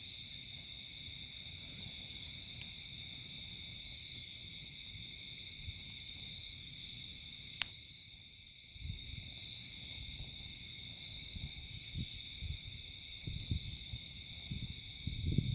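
Steady outdoor chorus of insects such as crickets, with one sharp pop about halfway through. Low, irregular rumbling noise picks up in the second half.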